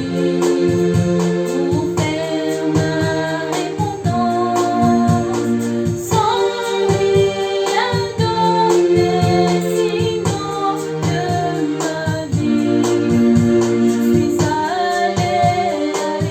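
A woman singing a gospel song over keyboard or organ accompaniment with a steady beat.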